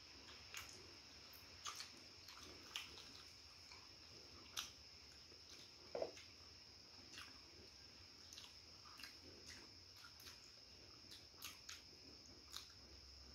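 Faint eating sounds of people chewing fried chicken and pulling it apart by hand: scattered small clicks and smacks at an irregular pace, the loudest about six seconds in, over a steady faint high-pitched whine.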